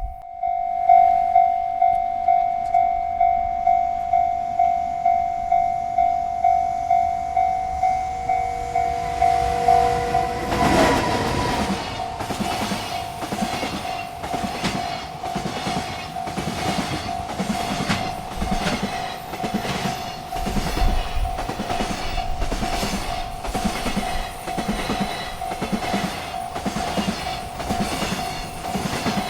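Railroad crossing bell ringing about twice a second; about ten seconds in a freight train reaches the crossing and its cars rumble past with a steady clickety-clack of wheels over rail joints, the bell still ringing beneath.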